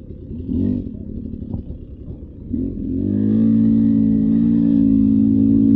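Beta 300 RR two-stroke dirt bike engine running low with two short throttle blips, then held on the throttle from about three seconds in, running steadily and louder.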